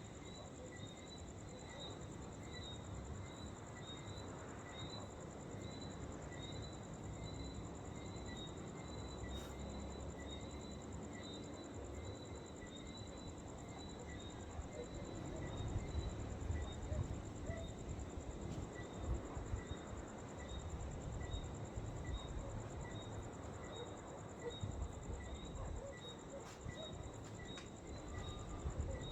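Crickets chirping outdoors: a continuous high insect trill with regular short chirps a little more than one a second. A low rumble of wind on the microphone runs underneath and gusts louder about halfway through.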